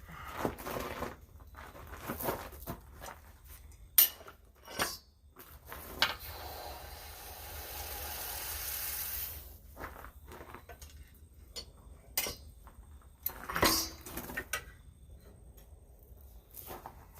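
Scattered light metal clinks and knocks as steel tools and stock are handled, with a steady hiss for about three seconds midway.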